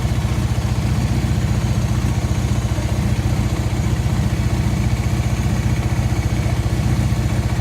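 Motorcycle engine idling steadily, with an even, fast low pulse.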